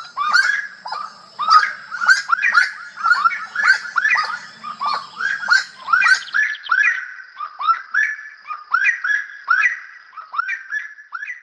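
Slaty-breasted wood-rail (saracura-do-mato) calling: a loud, rapid run of sharp, repeated notes, each a quick slur in pitch, tumbling on continuously at about three a second.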